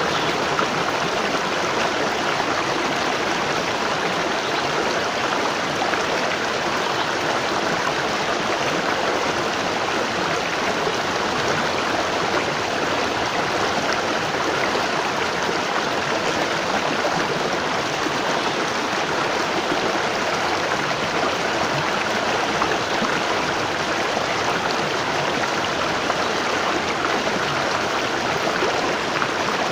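Waterfall: water falling and rushing steadily in an even, unbroken roar.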